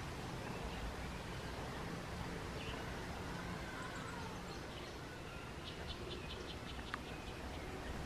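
Steady faint background noise with distant bird calls: a few soft chirps and whistles, then a quick run of about ten short high notes a little over halfway through.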